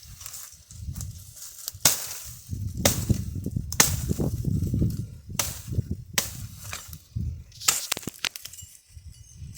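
Dry firewood being cut and broken: about seven sharp wooden cracks and knocks at uneven intervals, with low handling and rustling of branches between them.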